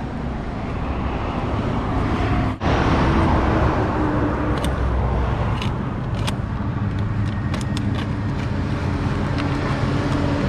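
Steady road traffic noise: a continuous rumble of passing vehicles, with a few light clicks in the second half.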